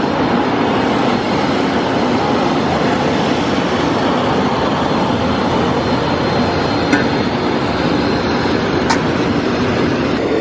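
Steady, loud rumbling cabin noise of a vehicle in motion, heard from inside, with a couple of faint clicks partway through.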